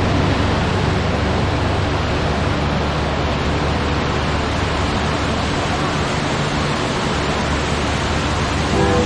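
Waterfall: a steady, loud rush of falling water that cuts in suddenly at the start, with faint low steady tones underneath.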